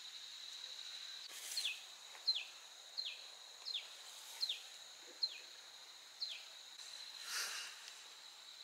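A bird calls seven short whistled notes, each falling in pitch, about one every two-thirds of a second, over a steady high-pitched insect drone. A brief rustle comes near the end.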